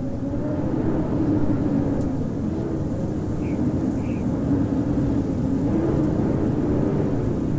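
Howling winter storm wind: a steady deep rushing with a low howl that wavers up and down in pitch.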